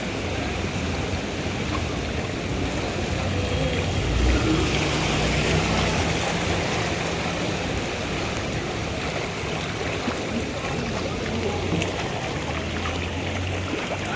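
Floodwater in a street sloshing and splashing continuously, with a low hum that swells about four seconds in and again near the end.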